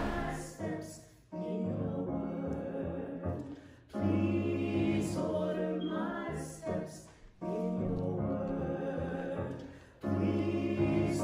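A church choir singing a hymn in phrases, with short pauses between them about every three seconds.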